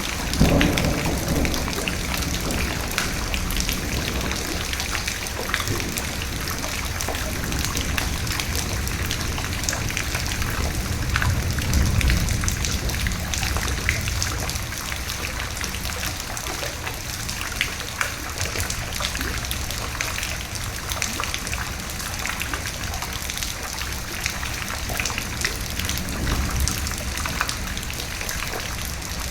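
Steady rain falling, with individual drops heard as fine ticks, and low rolls of thunder swelling up just after the start, around the middle and again near the end.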